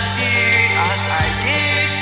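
Karaoke performance: a singer's voice over a recorded backing track with sustained bass and a steady drum beat.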